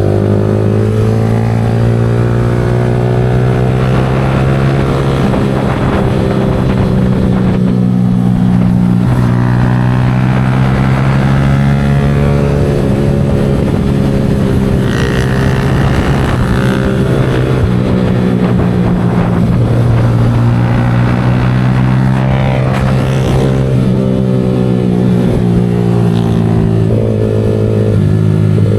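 Yamaha R15 V4 motorcycle engine running, its speed rising and falling gently.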